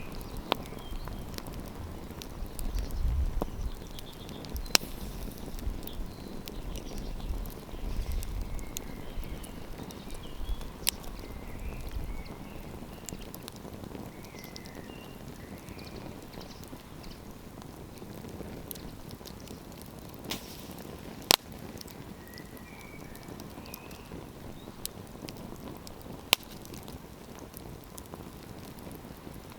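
Wood campfire crackling: a steady hiss with scattered sharp pops, one louder pop about two-thirds of the way through. A low rumble is present for the first dozen seconds.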